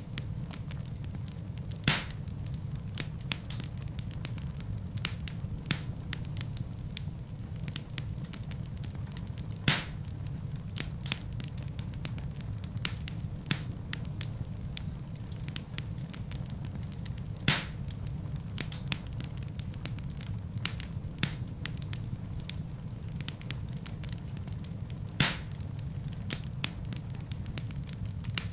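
Wood fire burning in a fireplace, crackling with frequent small snaps over a steady low rumble, and a louder pop about every eight seconds.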